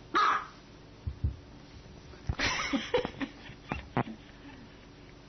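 Small white dog barking in short, high yaps: one sharp bark just after the start, then a run of yaps and whiny calls from about two and a half to four seconds in. Two low thumps come about a second in.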